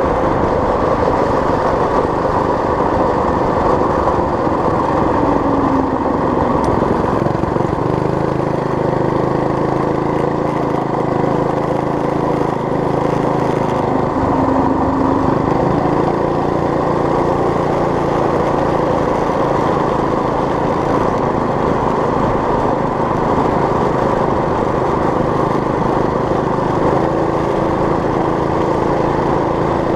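Homemade mini bike's small engine running under riding, its speed dropping about six seconds in, then holding fairly steady with small rises and falls.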